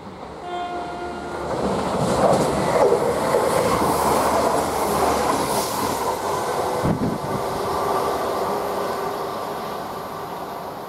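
Class 172 Turbostar diesel multiple unit sounding a short single-note horn about half a second in, then running past with rising wheel-on-rail and underfloor diesel engine noise. The noise fades in the last few seconds as the train draws away.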